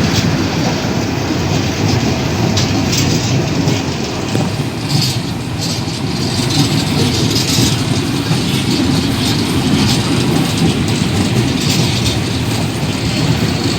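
Old passenger train running along the track: a steady loud rumble with irregular short metallic clanks and scrapes from the wheels on the rails.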